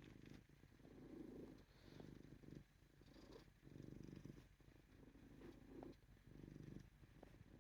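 Ragdoll cat purring faintly and steadily, a little purr that swells and fades about once a second with each breath in and out.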